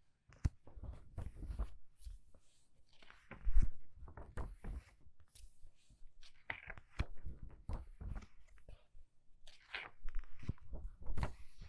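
Book pages being turned quickly: a run of papery swishes, flicks and crackles at an uneven pace, with soft thumps as pages land, the loudest about three and a half seconds in.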